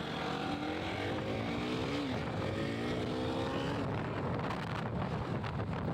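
Motorcycle engine running while riding, its pitch rising as it accelerates, then holding higher for about a second before dropping away, over steady road and wind noise.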